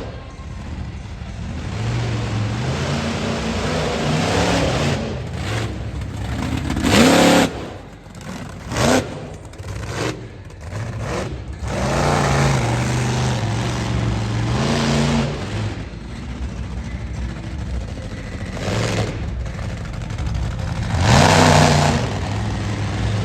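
Monster truck engine revving up and down again and again, with louder surges about seven seconds in and near the end.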